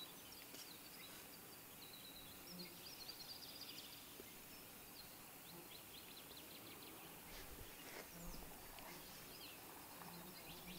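Near silence with faint, scattered small-bird chirps and twitters, and a brief low insect buzz now and then.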